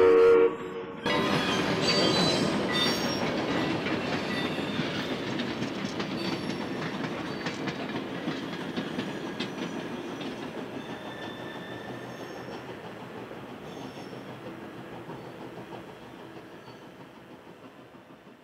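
Steam-hauled freight train rolling along the track, its wheels clattering on the rails with a little squeal. The sound comes in about a second in after a brief gap and fades away steadily.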